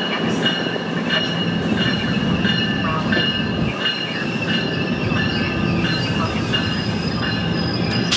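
NJ Transit electric-locomotive-hauled train passing slowly along the station platform, its steel wheels squealing steadily on the rails in several high tones over a dense rumble, with light clicks as the wheels cross rail joints.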